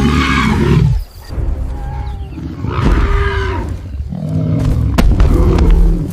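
A lion roaring in a series of loud calls, each about a second long, with a few sharp knocks near the end.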